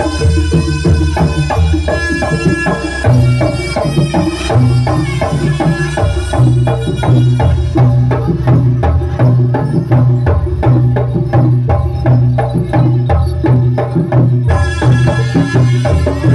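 Live jaranan (kuda lumping) ensemble music: drums beating a steady, driving rhythm under a pitched melody instrument. The melody drops out about eight seconds in, leaving mostly the drums, and comes back near the end.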